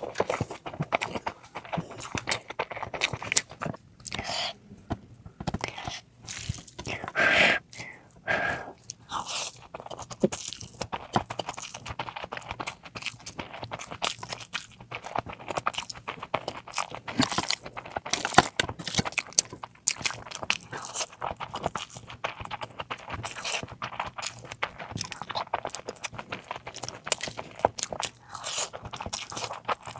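Close-up eating sounds from a curry meal: steady chewing and crunching in a dense run of small clicks and mouth noises, with a louder stretch about seven to eight seconds in.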